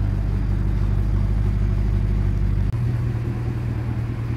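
Mercedes-AMG E-Class sedan's engine idling with a steady deep exhaust rumble. A little under three seconds in, its low note shifts abruptly to a slightly higher pitch.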